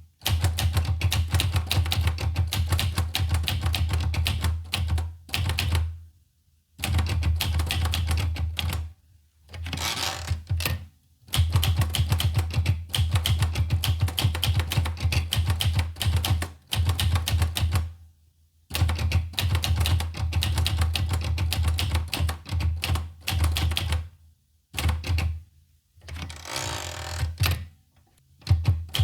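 Olivetti Lettera 25 manual typewriter being typed on in fast runs of keystrokes, broken every few seconds by short pauses.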